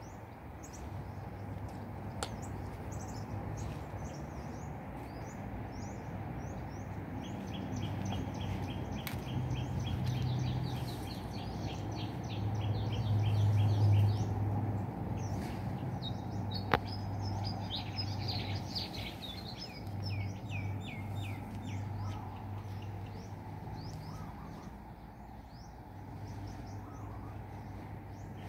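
Birds chirping and calling, with fast trains of repeated chirps through the middle, over a low rumble that swells around the middle. A single sharp click about two-thirds through.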